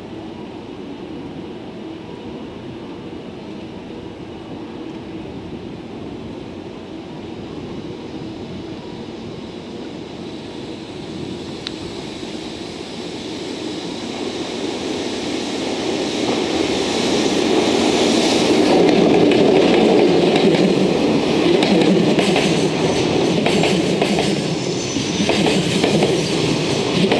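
A freight train hauled by an EF65 electric locomotive approaches, its rumble swelling about halfway through. Container wagons then roll past, their wheels clattering in a quick rhythm over the rail joints.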